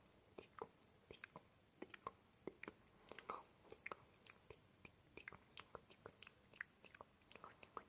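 Soft, close-miked ASMR mouth sounds: a run of irregular wet tongue and lip clicks and pops, several a second.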